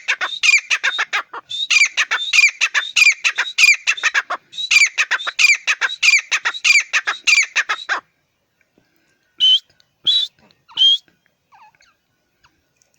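A francolin calling: a loud, harsh, rapidly repeated call series lasting about eight seconds, broken by two short pauses. Near the end come three separate single notes.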